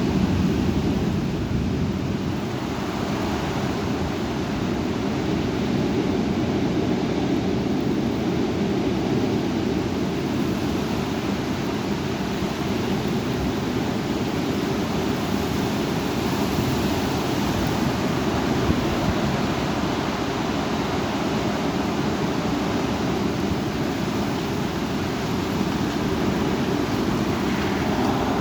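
Heavy thunderstorm wind blowing steadily, buffeting the microphone: a constant rushing noise, strongest in the low range.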